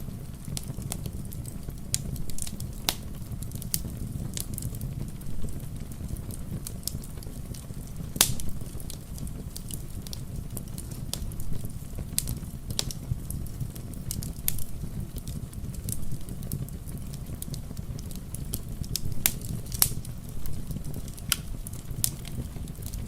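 Wood fire crackling in a fireplace: irregular sharp pops and snaps, a sharp loud pop about eight seconds in, over a steady low rushing bed of rain.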